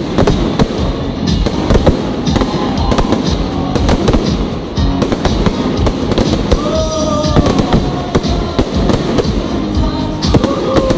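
Fireworks display at close range: a dense, continuous barrage of aerial shell bursts, bangs and crackling, many reports a second with no pause.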